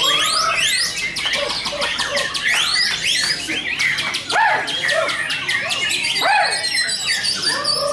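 Several caged white-rumped shamas singing at once, a dense overlap of fast whistled phrases with notes sweeping up and down, mixed with quick high ticking notes.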